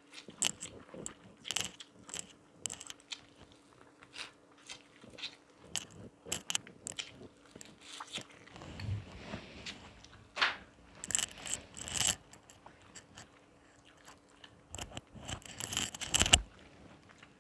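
Close-miked biting and chewing of corn on the cob: many short, irregular crunchy clicks as kernels are bitten off and chewed, with a louder cluster near the end.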